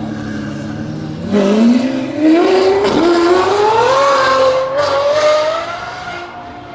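Lamborghini Revuelto's V12 engine accelerating hard, its note climbing steadily in pitch after about a second, with a brief break near two seconds, then fading as the car pulls away.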